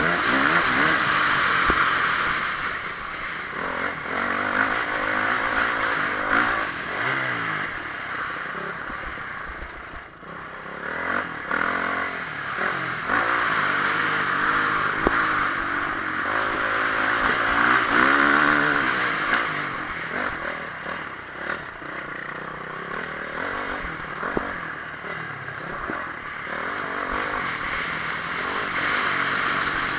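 Honda CRF450R motocross bike's single-cylinder four-stroke engine revving hard and falling off, its pitch rising and dropping again and again as the throttle is worked, with a brief drop in level about ten seconds in.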